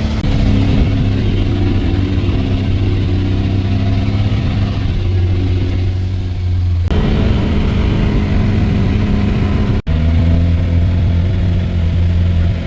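Vehicle engine running with steady road noise while driving, a low hum that changes abruptly about seven and ten seconds in.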